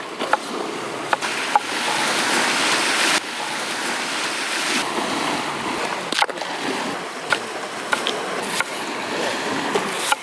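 Sardines frying in oil over an open fire: a steady sizzle scattered with sharp pops and crackles. The hiss drops suddenly about three seconds in.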